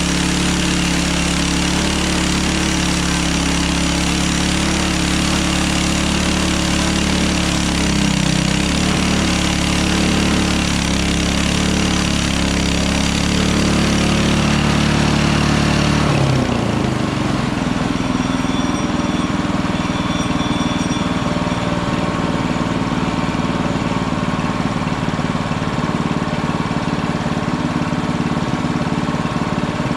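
Hudson Hunter portable band sawmill running: its engine works steadily under load while the band blade cuts through the log with a hissing cut. About halfway through the cutting hiss stops and the engine pitch dips briefly, then it runs on steadily without the cut, as the blade clears the end of the log.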